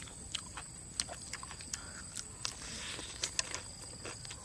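Chewing and biting into crispy fried chicken legs: scattered sharp crunches, lip smacks and mouth clicks, several a second at irregular intervals.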